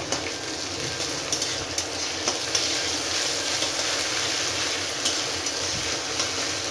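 Onions and ginger-garlic paste sizzling in hot oil in a metal kadhai on low flame, with a metal spatula stirring and scraping against the pan a few times.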